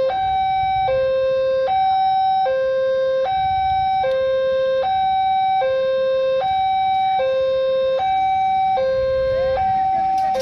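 Two-tone hi-lo siren, alternating evenly between a low and a higher note, each held just under a second, over a low rumble.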